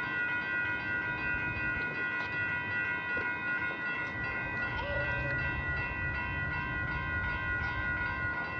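Amtrak Capitol Corridor passenger train, hauled by a Siemens Charger SC-44 locomotive, rolling past at close range: a steady low rumble of wheels and cars, with a constant set of high ringing tones over it.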